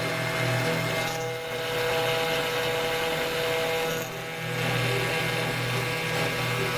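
CNC router spindle running and milling acrylic resin: a steady whine with the noise of the cut, briefly dipping twice.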